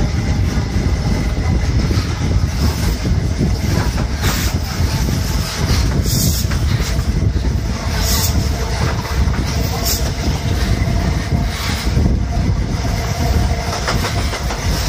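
High Speed Train coach running at speed, heard from an open window: a steady rumble of wheels on rail with wind rushing over the microphone. A few brief sharper rushes come about two seconds apart as the bridge's steel girders flash past.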